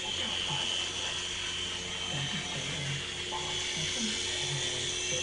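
Small electric motor and gears of a two-blade toy RC helicopter whirring steadily.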